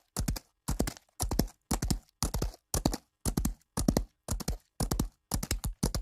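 Horse hooves beating in a steady gallop rhythm: quick clusters of two or three strikes, about two clusters a second.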